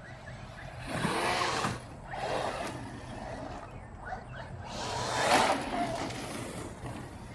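Arrma Mojave 4S electric RC truck driving, its motor revving up and down in three bursts with tyre and ground noise, the last burst the loudest.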